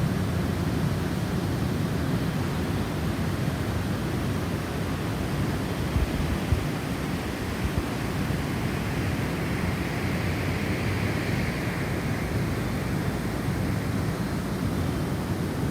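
Snowstorm wind blowing, a steady rushing with a low rumble. About nine seconds in a gust swells with a higher whistle that fades again. A few low thumps come around six to eight seconds in.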